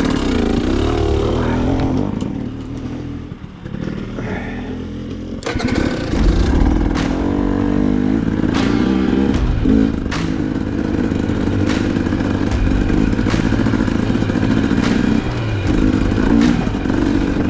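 Dirt bike engine running and revving as the bike rides away over rough single track, with the pitch rising and falling with the throttle. It gets louder about five seconds in, and sharp knocks recur through the rest.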